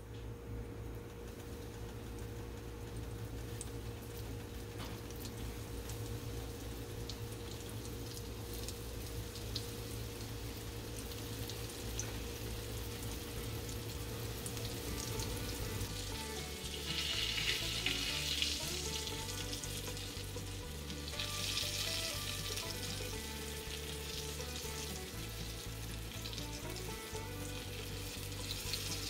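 Flour-breaded okra sizzling as it fries in hot oil in a cast iron skillet. The sizzle swells louder twice in the second half.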